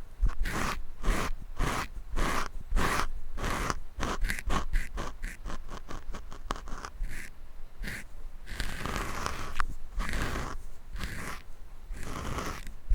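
Scratching on a microphone grille, picked up very close, in a run of separate strokes: about one every half second at first, then quicker and shorter, then longer drawn-out scrapes near the end.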